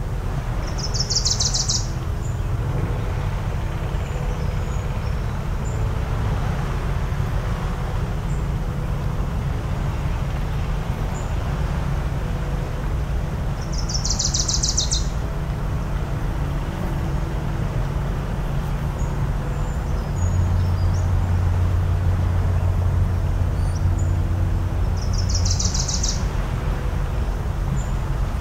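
Steady low rumble of surf and engines with a wavering mechanical hum. A small bird gives the same short buzzy, pulsed call three times, about twelve seconds apart. About two-thirds of the way through, a distant foghorn sounds one long, low, steady blast of about six seconds.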